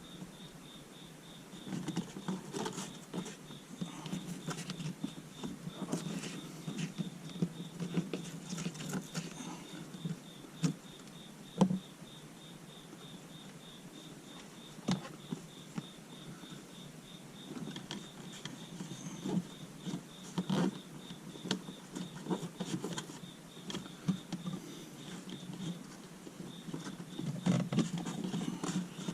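Hands working wiring and plastic interior trim of a car, making irregular clicks, taps and rustling as panels are pushed back and wires tucked in; a sharp click about twelve seconds in is the loudest. A steady, high, rapidly pulsing chirp runs underneath.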